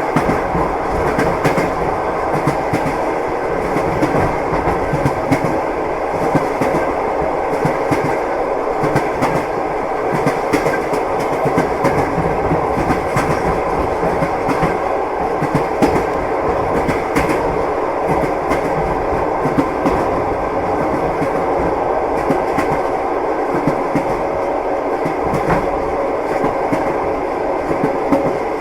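Passenger train wheels clattering over the rail joints, heard from inside the carriage. Frequent clicks sit over a steady rolling rumble.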